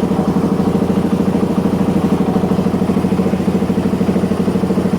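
Suzuki DR-Z motorcycle's single-cylinder four-stroke engine idling steadily with an even pulse, warming up without choke just after its carburettor fuel screw was set three turns out, running better for the adjustment.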